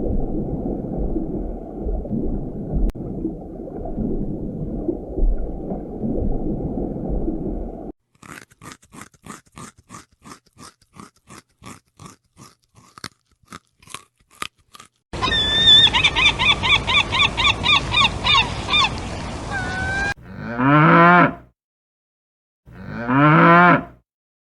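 A string of different animal sounds, one after another. First comes a steady low rumble for about eight seconds, then a quick run of clicks, then a few seconds of rapid pulsing chirps. It ends with two long pitched calls that bend in pitch.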